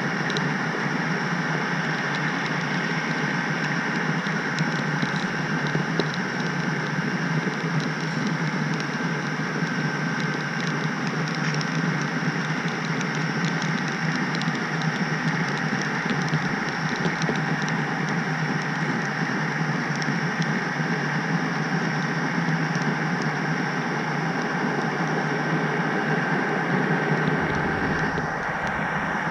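HO scale model train rolling along the track, heard from on board the caboose: a steady rolling hum with a constant high whine and a few faint clicks.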